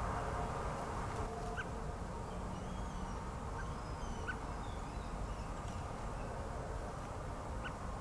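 Birds calling across open pasture: a few short, sharp calls spread through, with faint twittering higher up in the middle, over a steady low background rumble.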